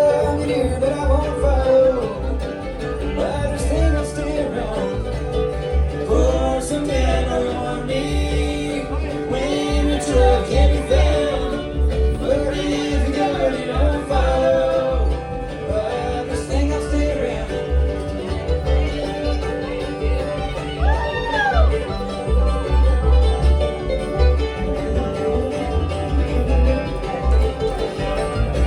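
Live bluegrass band playing a fast tune: banjo, guitar, mandolin and fiddle over a steady bass beat.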